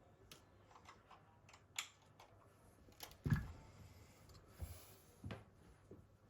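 Scattered light clicks and taps of small parts and tools being handled, with a duller, louder knock a little past the middle.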